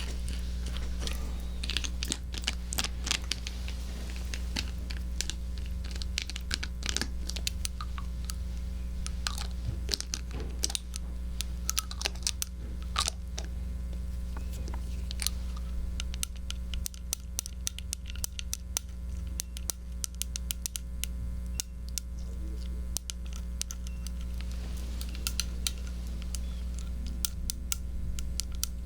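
Close-up ASMR trigger sounds on a 3Dio binaural microphone: irregular crackles, clicks and scratches, thickest in the first half, over a steady low hum.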